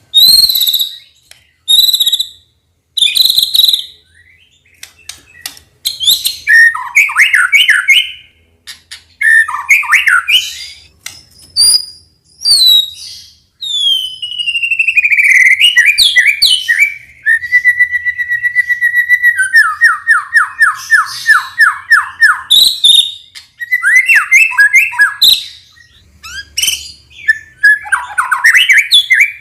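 White-rumped shama (murai batu) singing a loud, varied song of separate phrases: short high whistles, chattering runs, a long downward-sliding whistle and a fast, even run of repeated notes.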